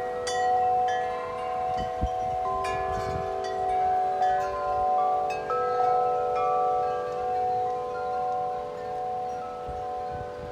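Large metal tubular wind chimes ringing in gusty wind. The tubes are struck again and again, so their long ringing tones overlap. Low wind buffeting on the microphone comes now and then.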